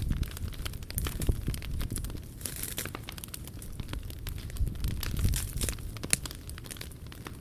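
Wood fire crackling in a POMOLY T-Brick Ultra fire stove, with scattered sharp pops over a steady low rumble.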